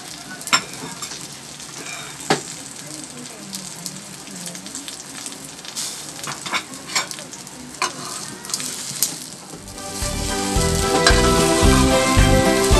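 Okra-and-egg omelettes sizzling in hot oil in a metal pan, with a few sharp clicks and pops. About ten seconds in, background music with a steady beat comes in and is louder than the frying.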